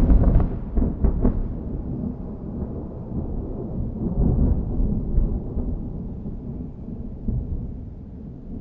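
Thunder: a loud clap with a couple of sharper cracks about a second in, then a long low rolling rumble that slowly fades.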